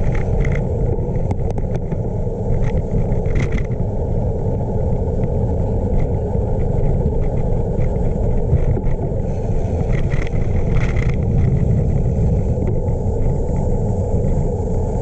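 Steady low rumble of wind buffeting the microphone and tyres rolling, from a gravel bike being ridden.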